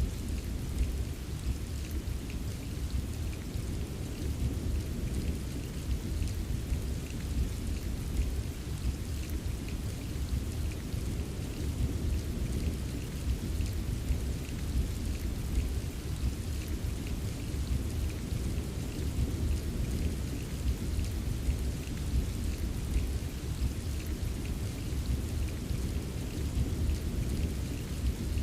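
Steady rain ambience: even, continuous rain noise with a deep rumble underneath and faint scattered drop ticks.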